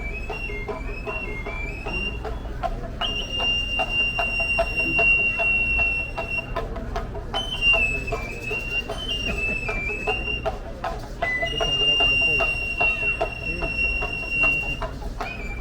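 Traditional Papantla Flyers' reed flute and small drum playing the ritual music. A high, piping melody steps up and down in short notes, twice settling on a long held note, over a steady drum beat.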